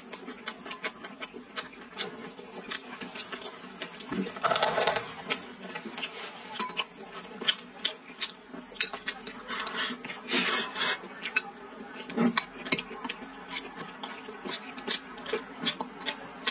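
Close-up eating sounds: wet chewing and lip-smacking with many small mouth clicks as she eats soft stewed chicken, potato and rice. Louder, noisier mouth sounds come about four and a half and ten and a half seconds in.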